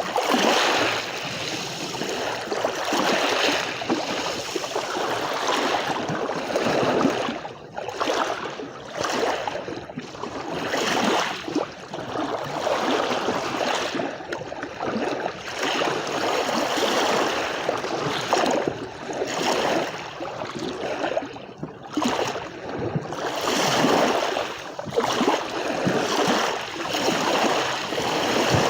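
Sea waves washing onto a beach: a continuous rush of surf that swells and ebbs every few seconds.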